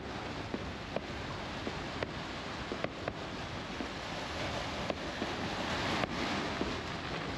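Fireworks going off: scattered sharp pops and cracks at irregular times, over a continuous rushing wash of noise.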